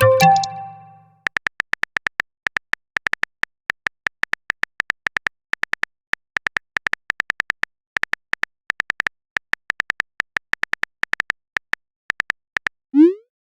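Messaging-app sound effects: a short notification chime of several tones at the start, then a long run of rapid keyboard-tap clicks, several a second in small bunches with short pauses, as a message is typed, and a quick rising whoosh near the end as it is sent.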